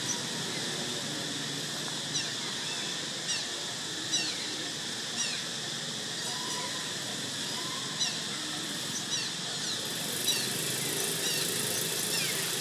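Baby monkey giving short, high, falling squeaks about once a second, over a steady outdoor hiss.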